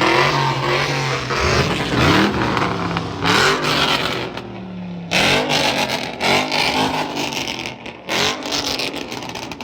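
Car engine revved hard in a series of sharp blips, about one a second, each a quick rising sweep, over loud noise.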